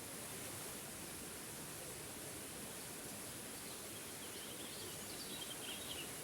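Small forest waterfall: a steady rush of falling water. A few faint bird chirps come in from about four seconds in.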